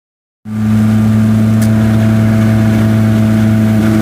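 Honda H23A VTEC 2.3-litre inline-four engine running at a steady speed, cutting in about half a second in. The exhaust is leaking through a broken flex pipe.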